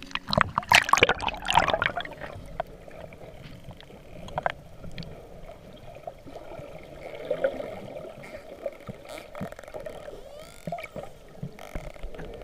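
Water splashing and gurgling close to the microphone, busiest in the first two seconds and then a steadier bubbling with scattered clicks.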